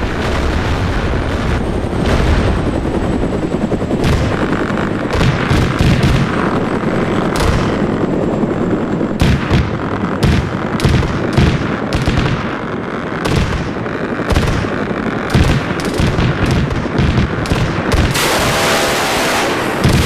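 Military helicopter weapons fire: many sharp shots and bangs at irregular spacing over a constant heavy rumble. About two seconds before the end the sound changes to an even, dense hiss.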